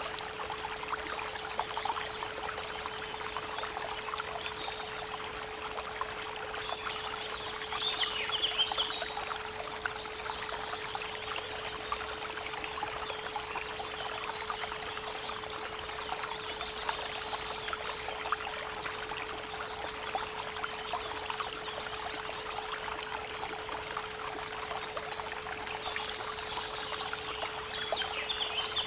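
A steady 432 Hz pure tone held under the running water of a creek, with birds chirping and trilling at intervals, busiest about eight seconds in and near the end.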